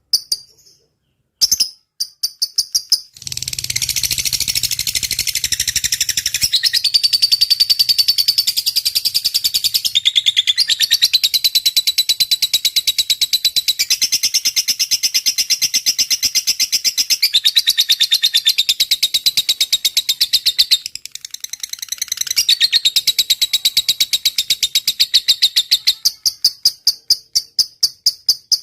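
Lovebird singing a long, very fast high-pitched ticking trill (the 'ngetik' chatter). After a short pause it starts about three seconds in, runs unbroken for over twenty seconds with a brief dip in the middle, then slows near the end into separate ticks about four a second.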